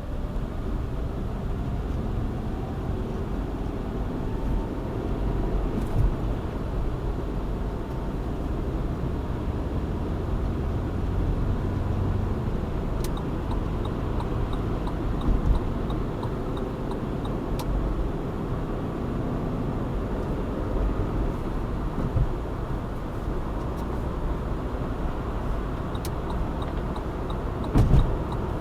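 Car driving in traffic: steady engine and tyre noise with the engine pitch gliding up and down through acceleration, a few light clicks, and a thump near the end.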